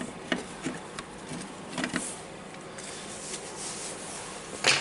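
Small handling noises from taking apart an angle grinder: a few light clicks and rubbing of plastic and metal parts, with a louder click near the end.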